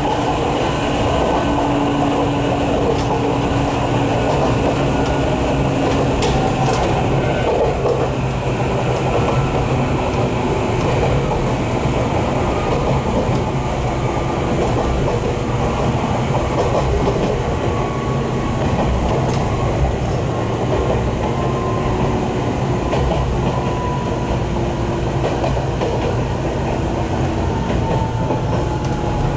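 Jomo Electric Railway 700 series electric train (ex-Keio 3000 series) running, heard from inside the car: a steady rumble of wheels on rail. A faint whine falls slowly in pitch through the second half.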